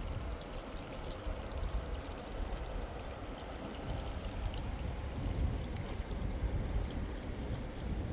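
Fast mountain river rushing steadily.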